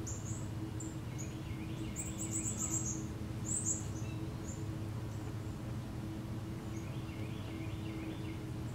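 Small birds chirping: quick runs of high chirps about two seconds in and again at about three and a half, with lower warbling phrases near the start and toward the end, over a steady low hum.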